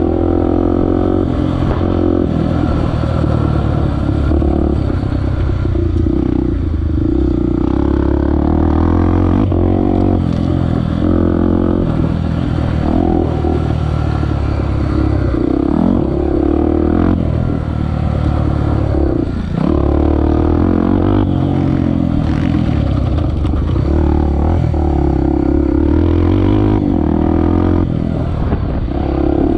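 Honda XR250 Tornado's single-cylinder four-stroke engine running under load as the motorcycle is ridden, its revs rising and falling over and over with throttle and gear changes.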